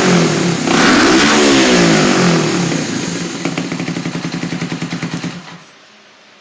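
1981 Honda CB250RS-Z's single-cylinder four-stroke engine revved up and down twice, then idling with a steady pulse of about ten beats a second. The engine stops about five and a half seconds in.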